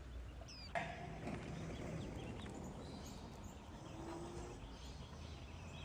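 Faint outdoor ambience with small birds chirping now and then, and a short sudden sound about a second in.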